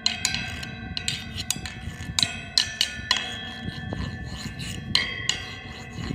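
A tuned drum struck by hand repeatedly at an uneven pace, each stroke leaving clear ringing tones that overlap into a melody.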